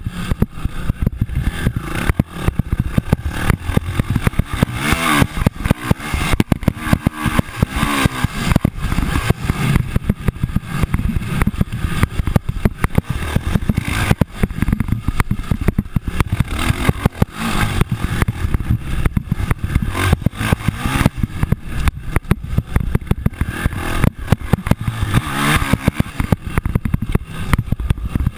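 Motocross dirt bikes' engines revving up and down, with a few clear rises and falls in pitch, under constant rough crackling noise.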